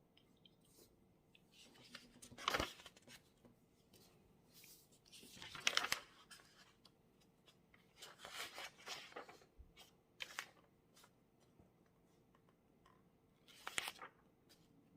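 Paper rustling at a desk in five short bursts, sheets or pages being handled and moved during study, with a faint steady hum underneath.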